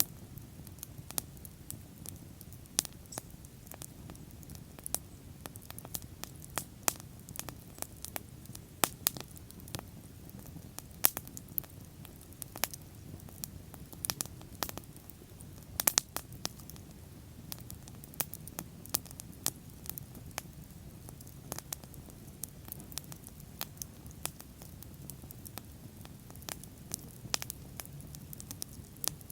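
Wood bonfire crackling, with sharp irregular pops and snaps over a low steady rush of flame.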